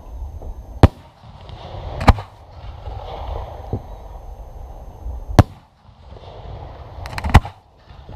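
Fireworks bursting overhead: four loud, sharp bangs spaced one to three seconds apart, the last one preceded by a quick run of crackles.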